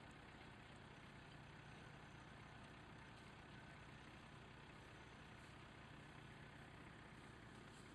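Faint, steady idling of an off-road SUV's engine, barely above near silence.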